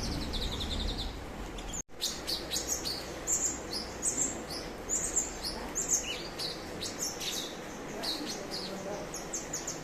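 A cucak cungkok singing: a quick high trill, then after a sudden cut about two seconds in, a rapid string of short, sharp high chirps and whistles.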